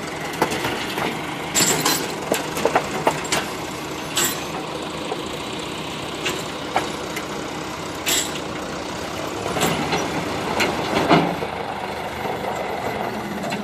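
Heavy truck engine running steadily, with repeated metallic clanks and knocks and a few short bursts of air hiss.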